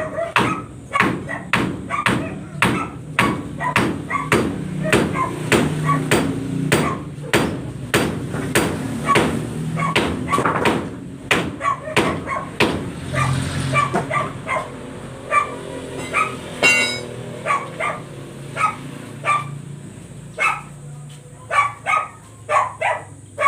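Hammer striking repeatedly on wood and nails, about two to three blows a second, each with a short ringing tone; after about twelve seconds the blows come more irregularly and further apart.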